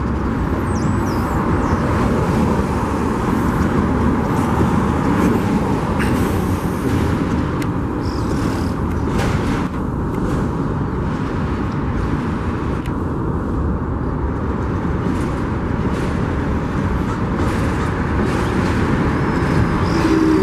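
Union Pacific freight train rolling past: a steady rumble of wheels on rail, with a few short sharp clicks through it.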